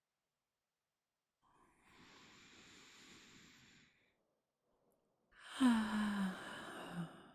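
A woman's slow breath in, then a sigh out with her voice sliding down in pitch into a soft, low hum.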